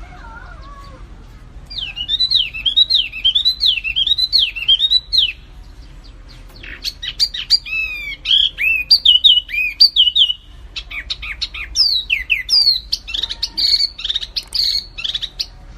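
Caged songbirds singing, from a birdsong training track of wambi mini and kapas tembak: first a string of about six looping, rising-and-falling whistled phrases, then a quick run of varied chirps and trills.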